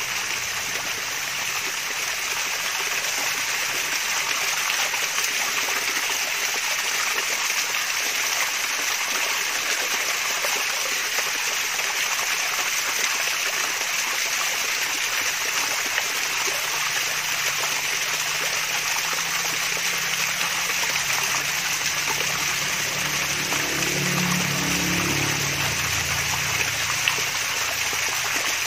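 Mini waterfall: water splashing and trickling in a steady, even rush.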